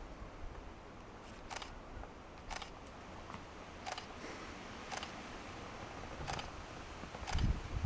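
A series of short, sharp clicks, roughly one a second, over faint room noise.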